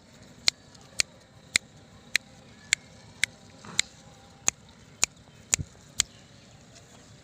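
A series of sharp, regular clicks, about two a second, stopping about six seconds in.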